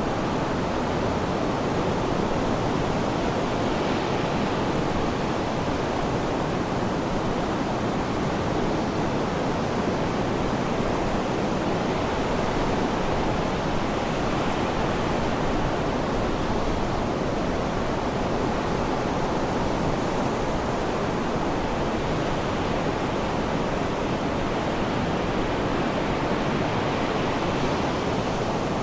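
Sea surf as a steady, unbroken wash of water noise, even in level throughout.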